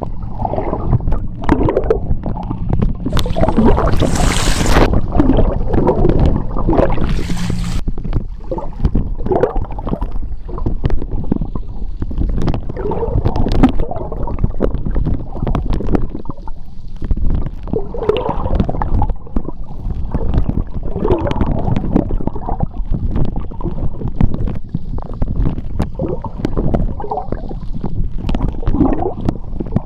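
Seawater heard underwater: a steady low rumble with gurgling bubbles, and louder hissing rushes about three seconds in and again around seven seconds.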